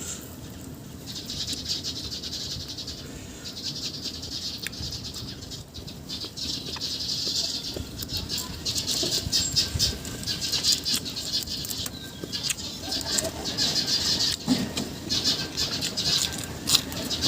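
Wind rustling dry leaves in gusts, a crackly rustle that swells and dies away several times.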